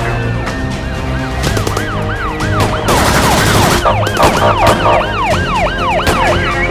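Police sirens wailing in quick rising-and-falling sweeps, several overlapping, over background music. A short burst of rushing noise comes about three seconds in.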